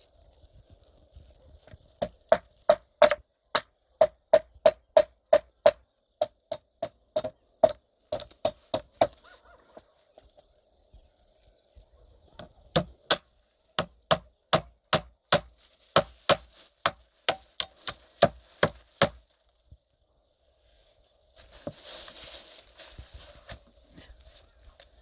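Quick, evenly spaced hammer blows, about two a second, in two long runs with a short pause between; each blow rings briefly. A short rustling scrape follows near the end.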